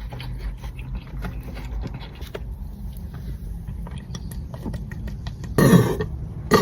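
Someone chewing a mouthful of pizza, with soft scattered mouth clicks, then a short loud vocal sound from the eater near the end.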